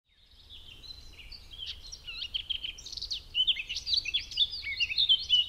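Birdsong: small birds chirping and twittering in quick, overlapping calls. The song fades in at the start and grows denser and louder in the second half, over a faint low rumble.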